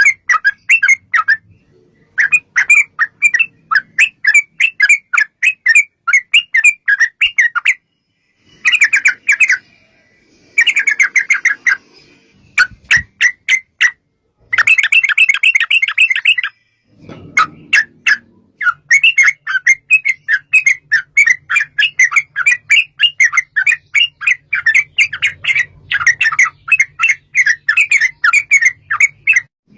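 Yellow-vented bulbuls singing in long, rapid runs of loud chattering notes, broken by a few short pauses.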